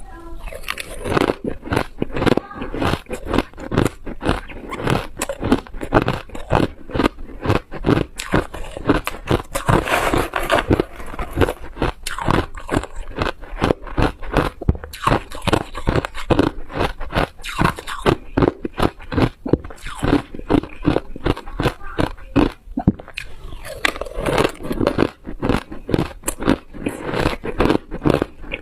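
A person biting and chewing hard ice close to the microphone: rapid, continuous crunching, several crunches a second.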